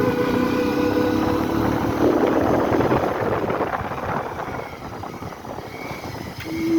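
Motorcycle engine running, its pitch rising as it speeds up, with a rush of wind noise in the middle that dies down toward the end.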